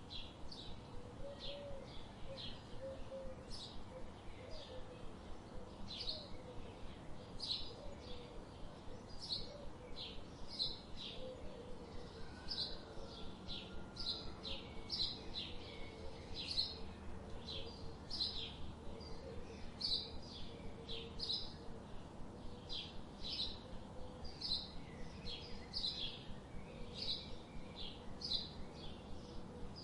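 Small songbirds chirping: short, high chirps repeating about two or three times a second, with a faint lower warbling line underneath.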